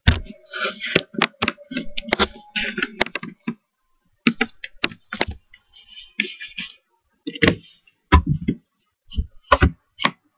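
Handling noise from a bathroom scale being moved and set on the floor: an irregular run of sharp knocks and clicks with bursts of rustling, busiest in the first few seconds and sparser toward the end.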